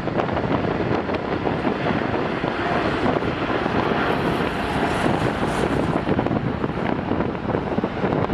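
Strong wind buffeting the microphone: a steady, fluttering rush of noise.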